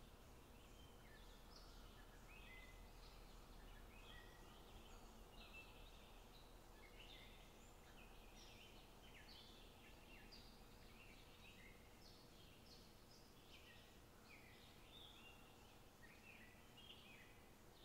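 Faint birds chirping in many short calls over a low steady hum, near silence otherwise.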